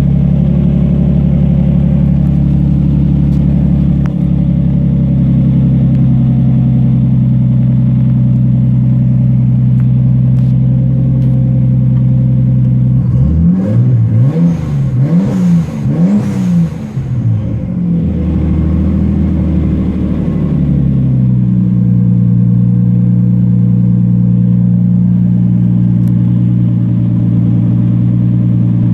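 Nissan RB25DET turbocharged straight-six idling on a cold start, running a little rich. About halfway through it is blipped through four or five quick revs, then it settles back to a steady idle.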